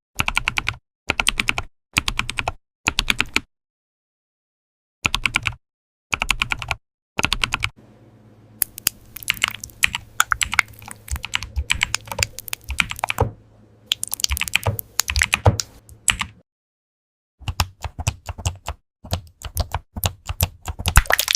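Computer keyboard typing: quick runs of key clicks in short bursts with clean silent breaks between them, and in the middle a longer stretch of steady typing over a faint low hum.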